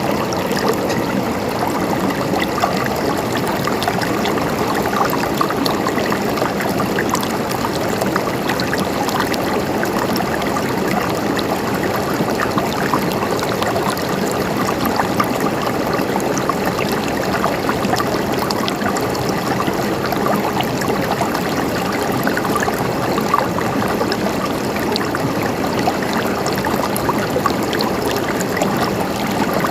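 River water flowing steadily over rocks, a constant rushing and babbling with many small splashes and no pauses.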